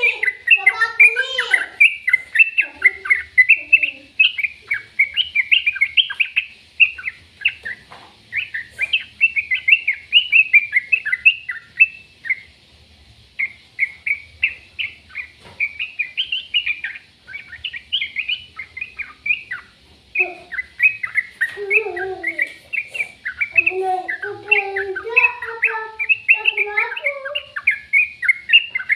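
Birds chirping in quick, continuous runs of short notes, joined by lower, harsher calls about two-thirds of the way in.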